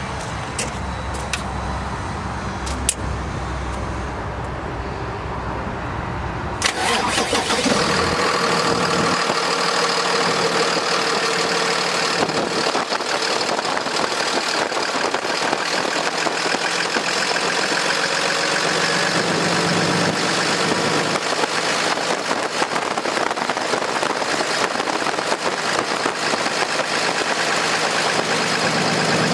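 Cummins ISB diesel engine of a Freightliner M2 truck starting up suddenly about a quarter of the way in, then idling steadily.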